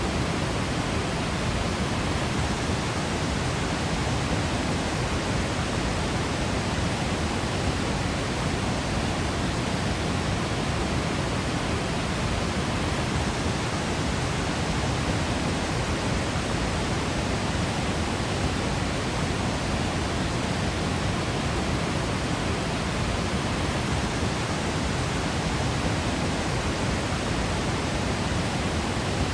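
Waterfall in Yosemite National Park, its falling water making a steady, even rush of noise.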